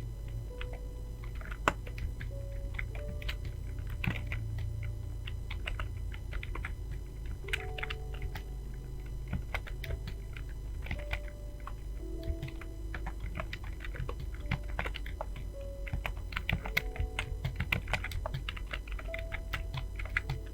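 Fast typing on a computer keyboard: a quick, irregular run of key clicks.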